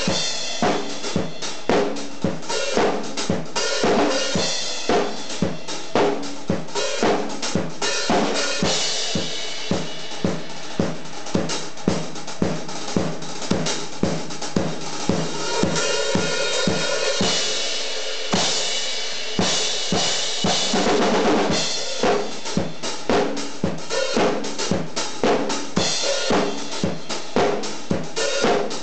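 Rock drum kit played along to a band track: a steady kick-and-snare beat with cymbals, several strikes a second, the low kick drum dropping out for a few seconds past the middle before the beat resumes.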